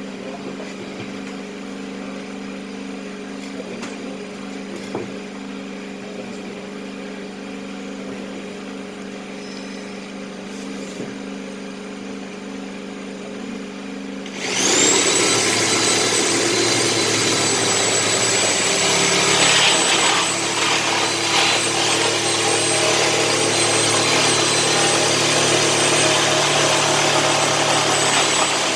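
A steady hum with several fixed tones, then about halfway an electric power tool starts up with a high whine and runs on loudly, working on the metal drum of a Candy washing machine.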